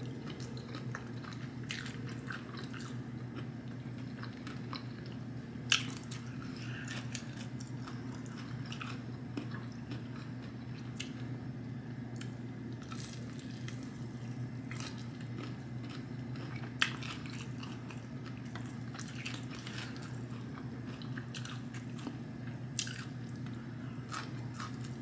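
A person chewing sauce-drenched fried chicken with her mouth close to the mic, with scattered small mouth clicks and two sharper clicks about six and seventeen seconds in, over a steady low hum.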